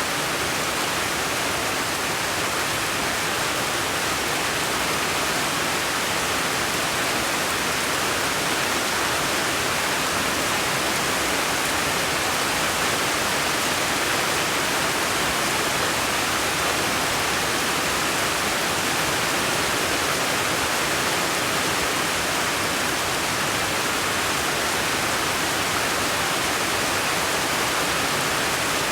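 A steady, even rushing hiss that does not change, with no separate drops, knocks or tones in it.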